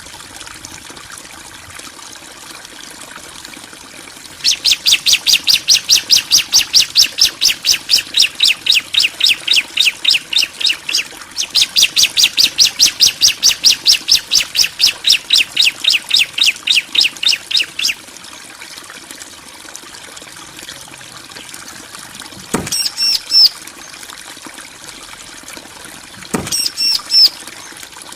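Bar-winged prinia (ciblek) calling: a long fast series of sharp, evenly repeated notes, about six a second, in two runs with a short break between. Later come two brief, higher chirping bursts.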